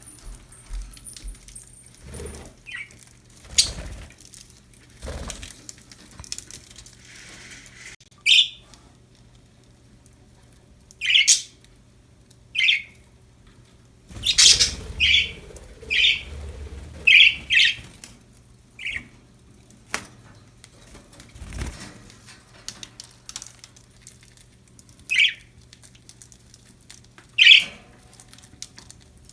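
Pet budgerigars giving short, sharp chirps and squawks. The calls are scattered, with a quick run of them about halfway through, and brief flutters and rustles come between the calls.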